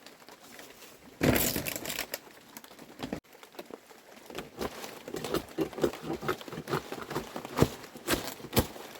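A loud rustling, crinkling burst about a second in, then a run of irregular light knocks and taps of things being handled.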